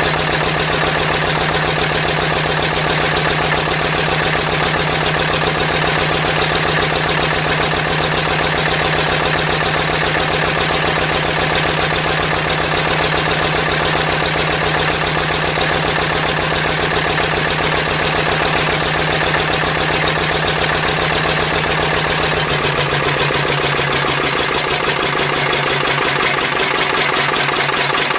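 1981 Lister 16/2 stationary diesel engine running steadily with an even, rapid beat. About three-quarters of the way through, its deep low note shifts and the lowest rumble drops away, while the engine keeps running at the same loudness.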